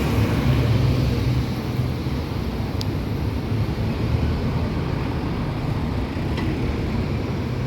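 Steady low rumble of a moving road vehicle, with engine and road noise, continuing without a break.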